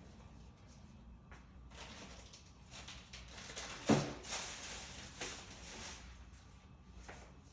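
Quiet handling sounds while working with acrylic paint: faint scraping and rustling, with a single sharp knock about four seconds in.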